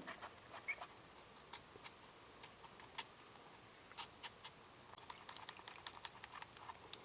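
Hand shears snipping through gasket material: faint, irregular clicks and snips, coming faster near the end.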